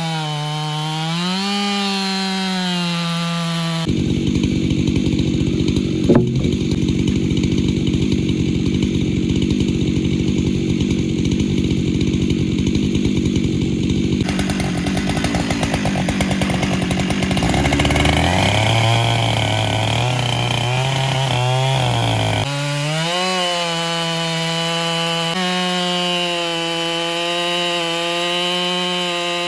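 Husqvarna 592XP chainsaw on a Granberg Alaskan chainsaw mill, running at high revs and ripping a log lengthwise. It runs with a steady high whine for the first few seconds. About 4 seconds in the sound turns rough and noisy as the chain cuts under load, with a sharp crack a couple of seconds later. The engine pitch sags lower as it lugs for a few seconds. About 22 seconds in it goes back to the steady high whine.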